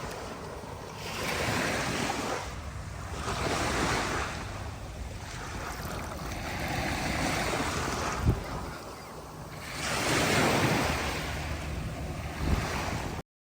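Sea waves washing onto a beach, the surf swelling and fading every two to three seconds, with wind buffeting the microphone. It cuts off suddenly near the end.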